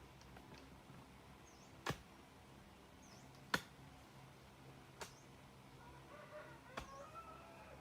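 Four sharp knocks, about one and a half seconds apart, with chickens clucking near the end and faint high chirps in between.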